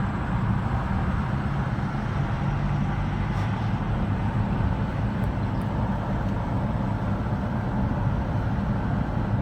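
Steady road noise of a moving car heard from inside the cabin: a low engine hum under even tyre noise.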